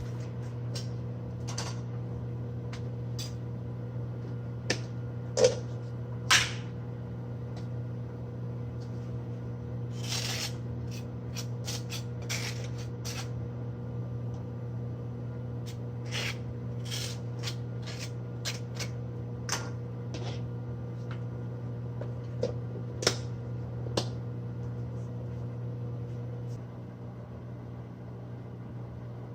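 Microwave oven running with a steady low hum while it poaches an egg in water, with scattered clicks and a few short scrapes over it.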